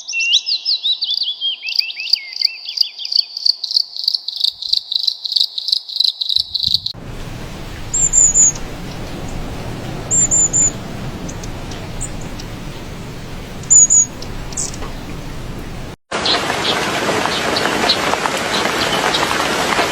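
Small birds calling: a fast run of rapid chirping notes for the first several seconds, then short high chirps every couple of seconds over a steady hiss. The sound cuts out for a moment about 16 seconds in.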